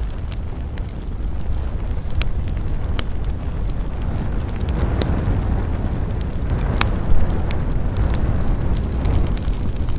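Wood campfire crackling, with scattered sharp pops over a steady low rumble; the loudest pop comes about seven seconds in.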